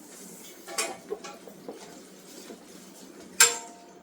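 A few light clinks of hard objects against each other. The loudest comes near the end and rings briefly.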